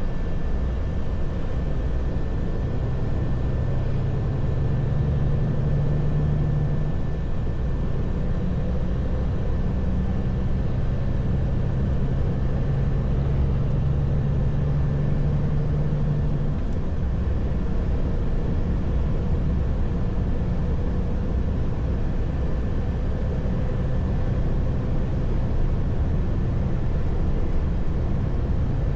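Heavy truck's diesel engine running with a steady low drone, its hum shifting slightly a few times.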